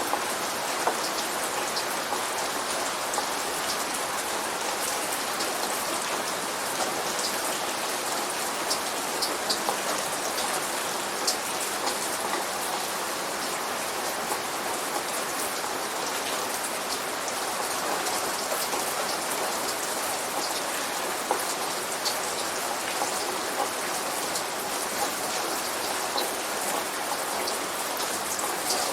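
Steady light rain: an even hiss with scattered sharp ticks of drops striking a surface.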